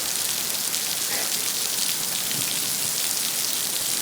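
Heavy rain falling steadily, a dense, even hiss of many small drop impacts.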